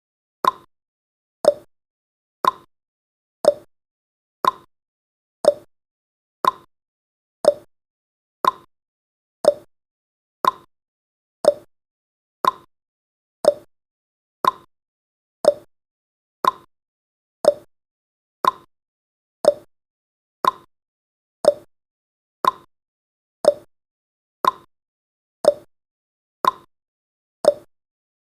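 Countdown timer's ticking sound effect: short, sharp ticks, evenly spaced at one a second.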